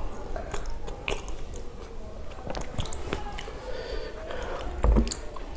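Close-miked eating sounds of pav bhaji: biting and chewing of the soft bread rolls and vegetable curry, with scattered mouth clicks and smacks. A dull thump comes near the end.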